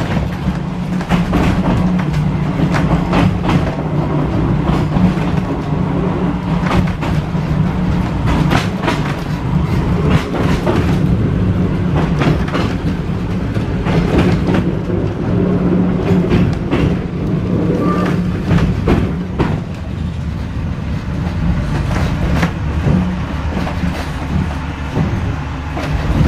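Vintage W2 class electric tram running along the track, a steady low hum under repeated clicks and knocks of the wheels over rail joints.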